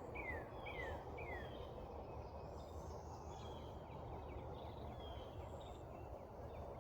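Dawn countryside ambience: a bird repeats short downward-sliding whistled notes, about two a second, in the first second or so and again near the end, over a low steady background rumble and faint insect calls.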